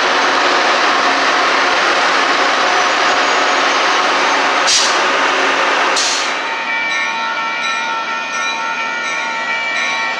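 Caltrain commuter train passing close by, a loud steady rush of wheels on rails, with two sharp knocks about five and six seconds in. About seven seconds in, a cut to a quieter scene: the next Caltrain approaching, with several steady ringing tones.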